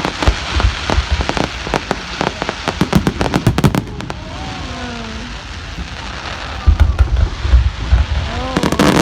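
Fireworks going off: a fast run of sharp crackling bangs, a short lull, then deep booms about two-thirds of the way through and dense crackling again near the end.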